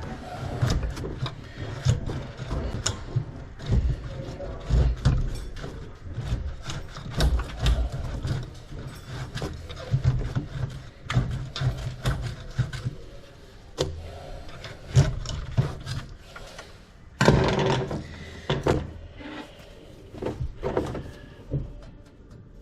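Irregular knocks, clatter and rubbing from hands working tools and plastic drain pipe fittings, with a louder burst of clatter about three quarters of the way through.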